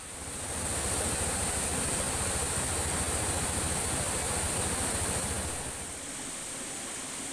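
Steady rain falling, a dense hiss. A deep rumble swells under it about half a second in and fades out near the end.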